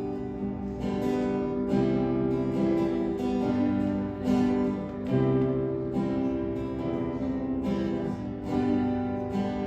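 Acoustic guitar strummed in a steady rhythm, with the chords changing every few seconds.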